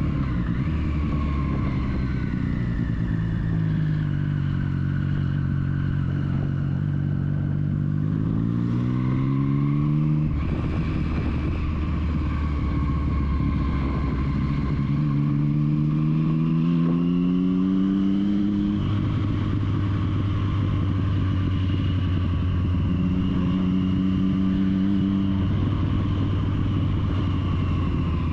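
Triumph Street Triple's three-cylinder engine running under way, heard from the bike over steady wind and road noise. Twice the revs climb and then drop suddenly at an upshift, with steady cruising between.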